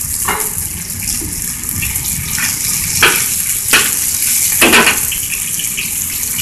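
Diced chicken sizzling in hot oil in a wok, with a metal wok spatula scraping across the pan several times as the pieces are turned.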